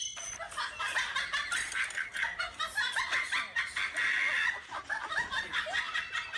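A person laughing in quick, high-pitched bursts that come again and again.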